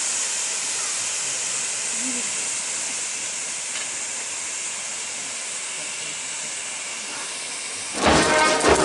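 A steady high-pitched hiss that slowly grows fainter. Near the end, loud music with thuds cuts in suddenly.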